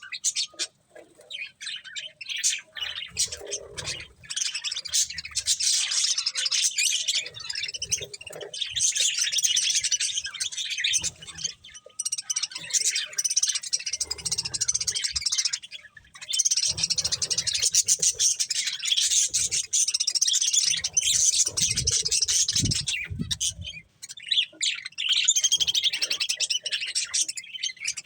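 Budgerigars chirping and warbling in a fast, dense chatter that comes in long runs broken by short pauses.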